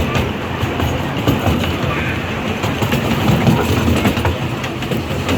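Small-gauge steam-hauled train running along the track, a steady rumble with scattered clicks and knocks.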